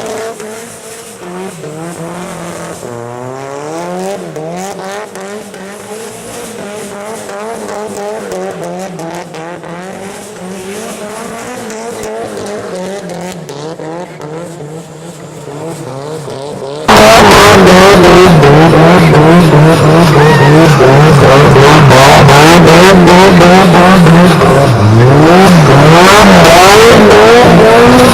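Car engine revving hard and unevenly, its pitch swinging up and down, while the tyres squeal in a drift or donut. About two-thirds of the way through it turns abruptly much louder, harsh and close.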